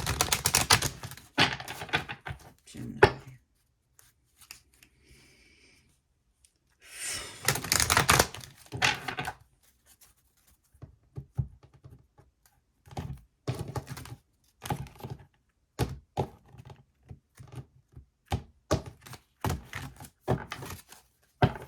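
Oracle card deck being shuffled by hand: two dense bursts of rapid card flicking, then a string of separate sharp card snaps and taps.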